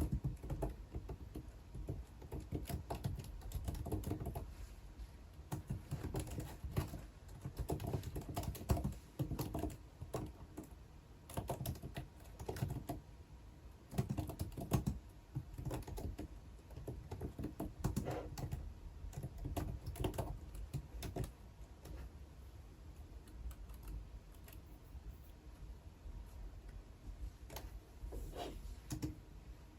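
Typing on a computer keyboard in irregular bursts of key clicks, with a few pauses; the typing thins out for a few seconds toward the end.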